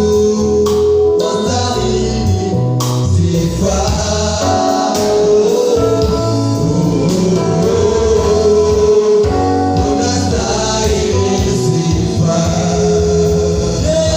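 Gospel worship song: several voices singing held, sustained lines over instruments and a moving bass line.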